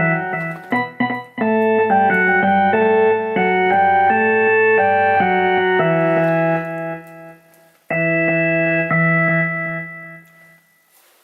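Electric-piano-like synthesized melody of held notes moving in steps, with a short break about a second in. It fades near the middle, then one final chord sounds and rings out.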